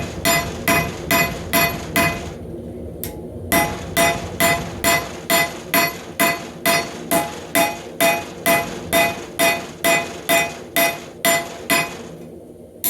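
Hammer blows on hot half-inch rebar on an anvil, drawing out a knife blade. The strikes are steady, about two to three a second, and each one rings, with a short break about two seconds in and another near the end.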